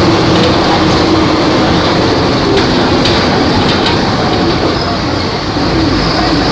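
Volvo B270F bus engine running steadily with a continuous drone, with a few faint clicks in the middle.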